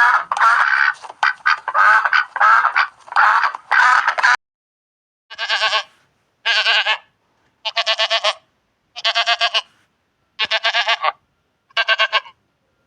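A few ducks quacking in quick succession for about four seconds, then a short pause. A sheep then bleats six times, about once a second, each bleat short and quavering.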